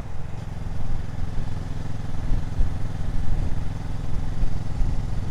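A 650 motorcycle's engine running at a steady speed, a low, even drone with no revving.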